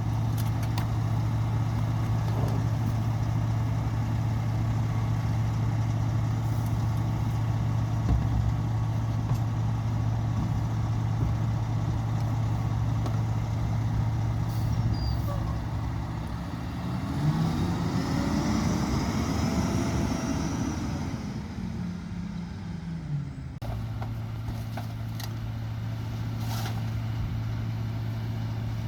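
Garbage truck's diesel engine idling steadily, then revving up and back down over several seconds from about halfway through, as the rear-loader's packer hydraulics cycle. A faint high whine rises with the revs.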